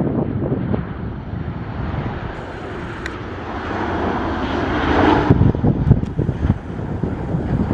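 Airliner's engines passing overhead with a steady rushing noise that builds to a peak about five seconds in, then fades under wind buffeting the microphone.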